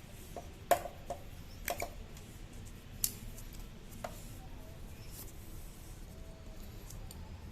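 Scattered light clicks and knocks of hand tools and metal parts being handled while a scooter's brake caliper is cleaned, about five taps in the first four seconds over a low steady hum.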